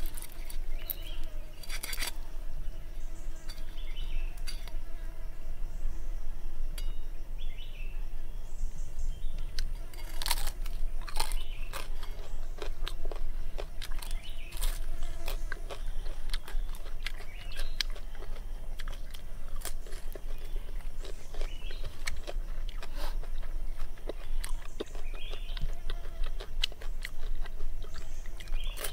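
Close-up eating of crispy grilled pig-head skin: irregular crisp crunches and chewing throughout, loudest about ten seconds in.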